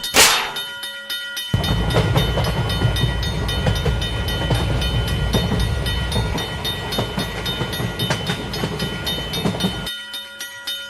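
Train sound effect from a railroad-crossing cartoon: a sharp burst right at the start, then a train rumbling past with a clickety-clack from about a second and a half in until near the end. Steady repeated ringing, like a level-crossing bell, runs throughout.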